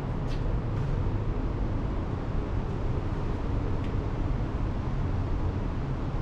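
Wind buffeting the microphone: a steady low rumbling noise, with a couple of faint light ticks.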